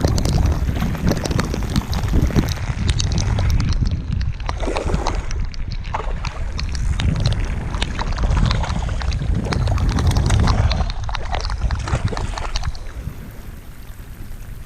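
Wind buffeting a chest-mounted action camera's microphone in a rain squall, with a dense patter of raindrops over it. The wind eases about thirteen seconds in.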